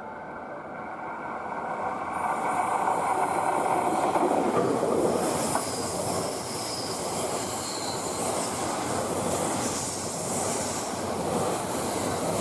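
Train running past on the rails: its wheel-on-rail noise builds about two seconds in, then holds as a steady rumble and hiss.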